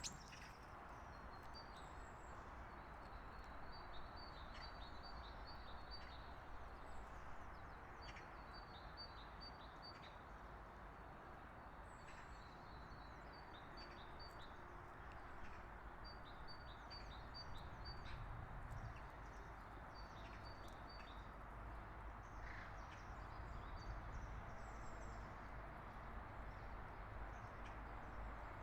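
Songbird singing: a short phrase of quick high notes, repeated every few seconds, over a steady faint background hiss of outdoor noise.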